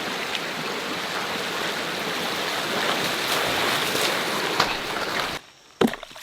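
Steady rush of running water, like a small stream. It cuts off suddenly near the end, and a single sharp knock follows.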